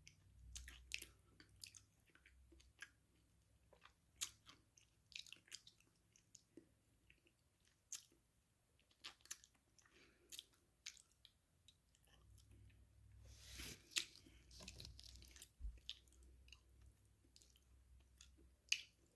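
Close-miked chewing of crunchy food, with irregular sharp crunches and crackles between softer wet chewing. The loudest crunch comes near the end.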